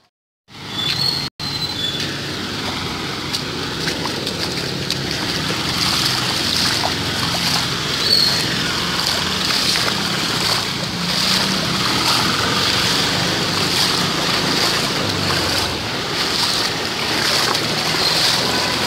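Steady noise of heavy rain and floodwater, with a low hum underneath. The sound drops out briefly near the start.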